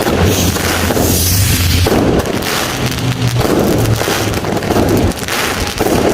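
Fireworks and firecrackers going off in a dense, continuous crackle of rapid bangs and pops.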